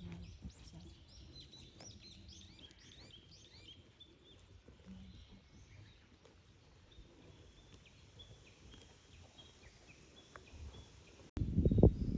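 Small birds chirping outdoors, many quick rising-and-falling notes at first, thinning out later, over a faint low rumble. Near the end an abrupt cut brings in much louder, rapid thudding footfalls on the ground.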